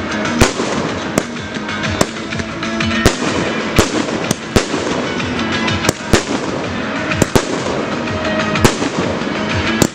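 Fireworks display: aerial shells bursting with sharp bangs about once a second over a continuous dense rumble and crackle.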